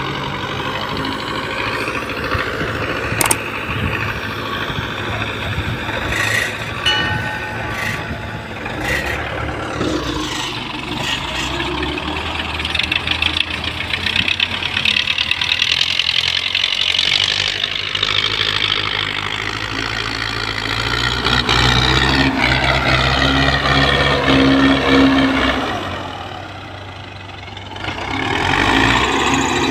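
Belarus tractor's diesel engine running under working load, its pitch rising and falling several times, dropping briefly in loudness near the end before picking up again.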